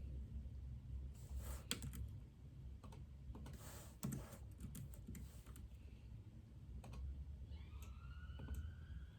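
Scattered keystrokes on a computer keyboard in short runs, over a steady low hum. Near the end a faint wailing tone rises and then slowly falls: a distant siren.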